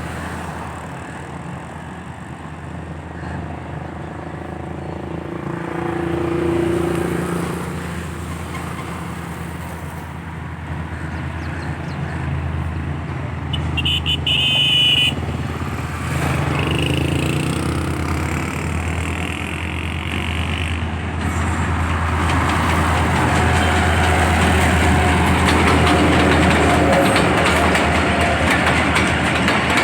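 A train approaching, its rumble building and growing steadily louder over the last third. A brief high-pitched toot sounds about halfway through.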